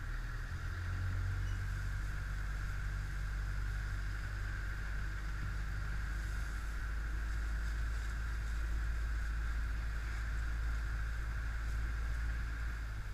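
Motorbike engine running at a steady speed, a continuous low drone that does not rise or fall.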